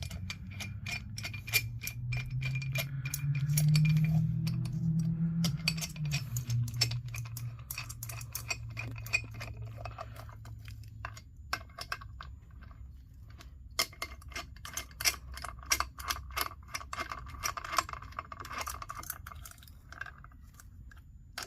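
Metal tools and bolts clinking, with quick runs of ratchet-like clicking, as bolts are run into a Sure-Grip differential case by hand. A low hum under it swells a few seconds in and fades out by about eleven seconds.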